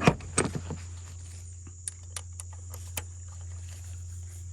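Metallic clicks and taps of a ratchet and socket on a spark plug being snugged into the engine head: a cluster of sharp clicks at the start, then a few lighter, scattered ticks.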